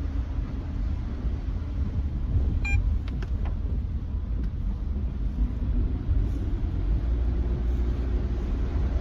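Steady low road rumble inside the cabin of a Nissan Note e-POWER at expressway speed. About three seconds in there is a brief high tone followed by a few light clicks.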